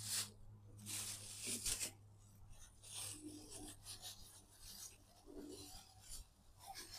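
Irregular short scraping and rubbing noises of objects being handled, several in a row, over a faint steady hum.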